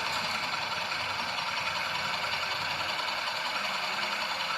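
Vehicle engine idling steadily through an aftermarket stainless-steel oval exhaust muffler.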